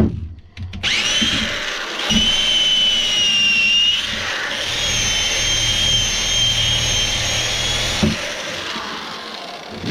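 Power tool spinning a wire brush against the rusty steel of an axe head to strip the rust. The motor whines up about a second in, runs with a high steady whine over a scratchy hiss, and cuts off near the end.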